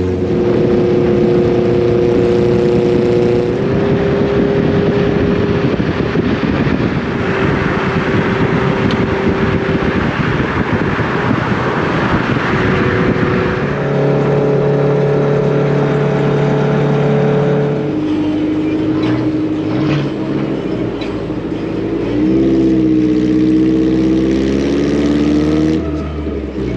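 Honda Civic driving on the road: the engine runs at a steady pitch that changes step-wise several times as speed and gear change, over loud tyre and road noise, with the pitch rising and falling near the end.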